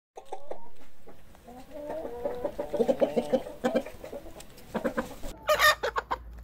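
A flock of chickens clucking, many short overlapping calls. Near the end comes a brief, loud, harsh burst from the flock.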